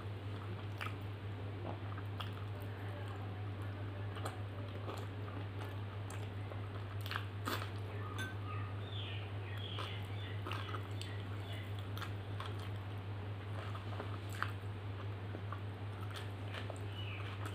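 Close-miked chewing and mouth sounds of someone eating mutton curry, rice and roti: wet smacks and scattered sharp clicks, with a steady low hum underneath.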